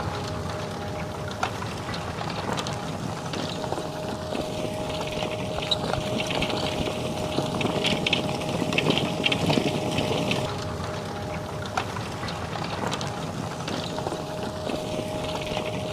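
Fendt 936 Vario tractor running steadily while working a field with a plough and press, the engine rumble carrying one held whine. A cluster of sharper clicks and rattles comes around the middle.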